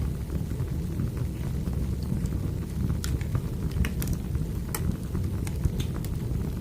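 Burning wood fire: a steady low rumble of flames with scattered sharp crackles and pops, several close together in the middle.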